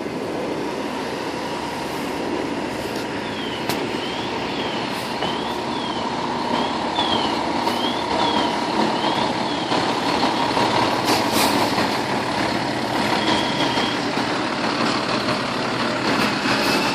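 Fire truck's diesel engine running amid street traffic noise. A siren's quick up-and-down yelp sounds faintly for about six seconds, starting about three seconds in, as the truck responds to a call.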